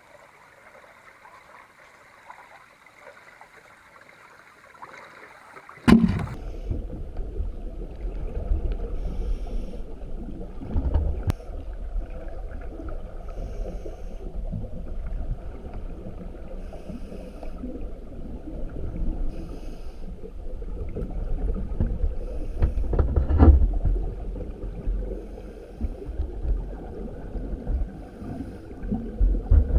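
Faint flowing-water hiss, then about six seconds in a sudden switch to the low rumble of an underwater microphone. Short bursts recur every few seconds, like a scuba diver's regulator breathing and exhaled bubbles.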